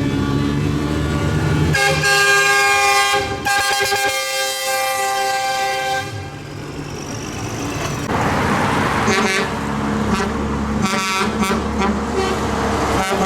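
Tractor engines running as a convoy passes, with a long, steady horn blast from about two to six seconds in, then shorter horn toots.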